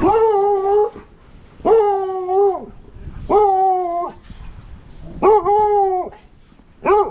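A sled dog howling in a series of short, held calls, five in all, about one every second and a half, each at a steady pitch with a slight rise at the start.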